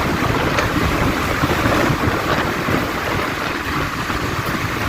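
Wind buffeting the microphone while riding, a steady rushing and rumbling mixed with road and traffic noise.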